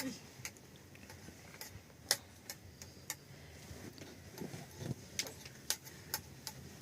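Irregular light clicks and taps, roughly one or two a second and unevenly spaced, over a faint low background murmur.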